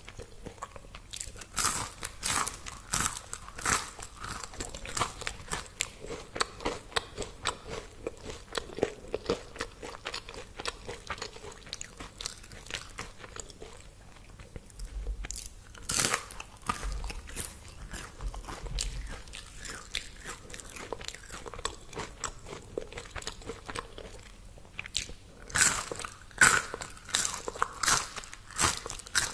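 A person biting and chewing crispy fried food: a steady run of irregular crunches and chewing, with the loudest bites about halfway through and near the end.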